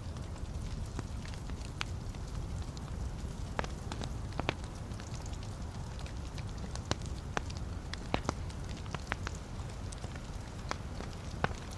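Wood fire burning in a fireplace: a steady low rumble of flames with irregular sharp crackles and pops from the logs, busiest in the second half.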